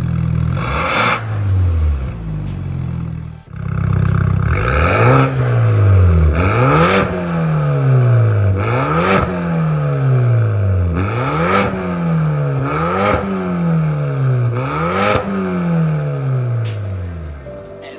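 BMW N20 2.0-litre turbocharged four-cylinder revving through an MS-R valved cat-back exhaust: repeated quick throttle blips about every two seconds, each revving up sharply and falling back slowly.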